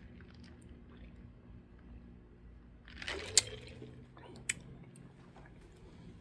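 Faint handling noise over a low steady hum: a short rustle about three seconds in with a sharp click, then a second sharp click about a second later.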